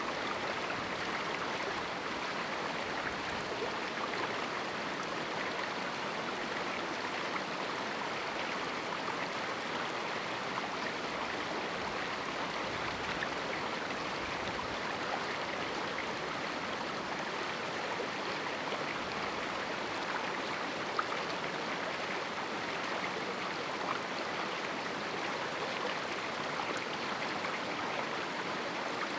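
A small river running over rocks in a canyon, a steady rush of flowing water with faint splashes and trickles.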